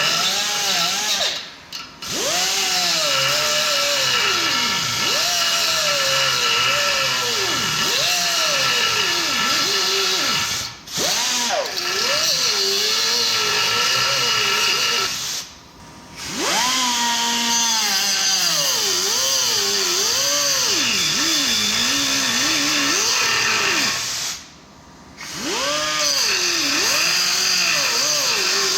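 Handheld power tool working on a rusted truck exhaust, run in long bursts with short stops. Its motor pitch keeps rising and falling as the trigger is feathered.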